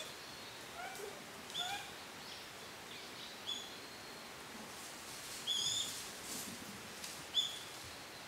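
Bird calling in woodland: short high chirps repeated about every two seconds, with two lower rising calls in the first two seconds, over a steady background hiss.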